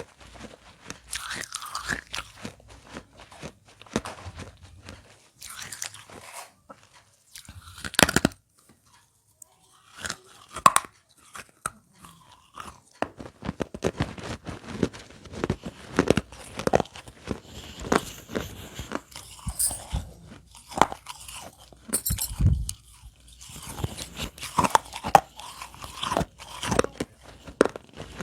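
Close-up biting and chewing of broken baked clay pot pieces: irregular, sharp crunches one after another, with a pause of about a second and a half about a third of the way in.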